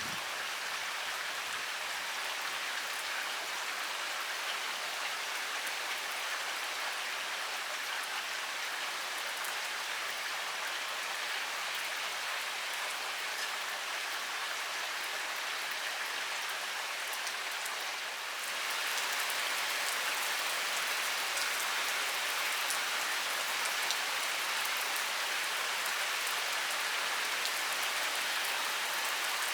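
Heavy rain pouring steadily, a little louder from about two-thirds of the way through.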